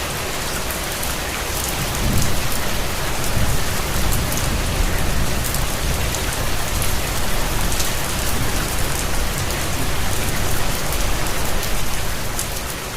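Steady rain falling with a dense patter of drops, joined about two seconds in by a low rumble that carries on underneath.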